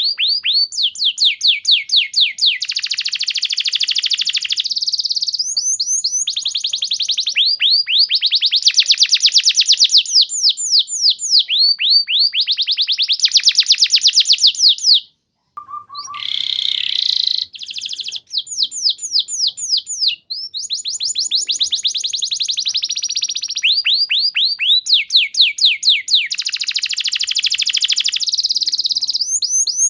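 Canary singing long, rapid trills, runs of fast repeated down-slurred notes that change speed and pitch from one run to the next. About halfway through the song breaks off for a moment with a short cut and a brief different sound, then the trills resume.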